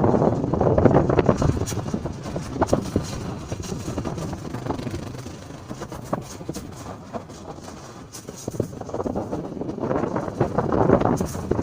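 Motorcycle riding along a road: engine and road noise with wind on the microphone. It fades through the middle and grows louder again near the end.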